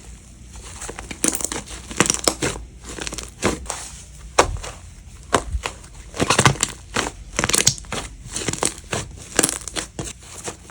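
Slime being squeezed and pressed by hand, giving irregular crackling and popping clicks, thickest about two-thirds of the way through.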